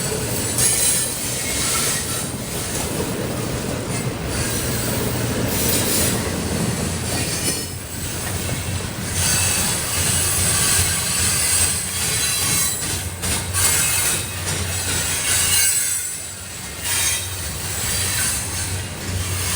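Norfolk Southern freight train's cars rolling past, with a steady rumble and continuous wheel squeal against the rails.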